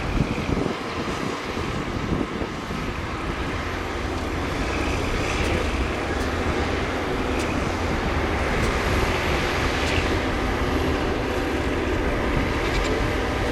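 Heavy diesel construction machinery running steadily with a deep rumble, with a few sharp metallic clicks or clanks scattered through.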